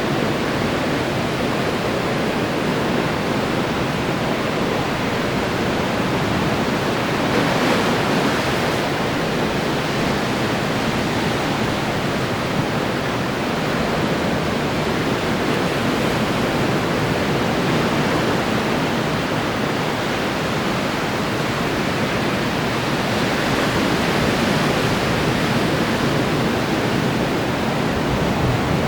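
Ocean surf breaking and washing on the shore: a continuous rush of waves, swelling a little louder about eight seconds in and again near the end.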